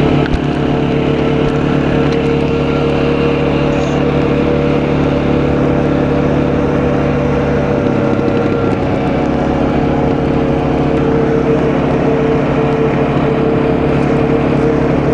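Quad bike engine running steadily under way.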